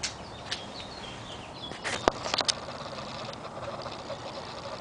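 Quiet background with faint bird chirps in the first second and a half, then a quick cluster of sharp clicks or taps about two seconds in.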